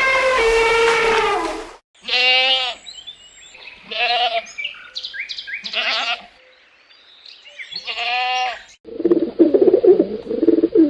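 Goat bleating four times, each a short wavering call about two seconds apart. Before the bleats comes the end of a long, steady elephant trumpet, and near the end a dove starts cooing.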